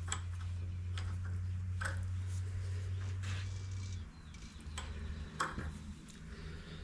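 Scattered light metallic clicks and taps from a threading die and die handle being worked on a steel pipe nipple, over a steady low hum that stops about four seconds in.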